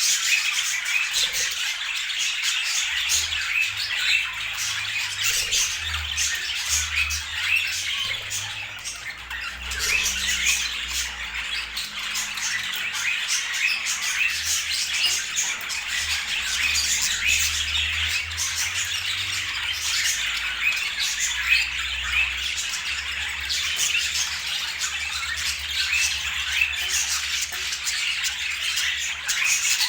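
Budgerigars chattering: a dense, unbroken run of short chirps and squawks from several birds, with a faint low rumble underneath in places.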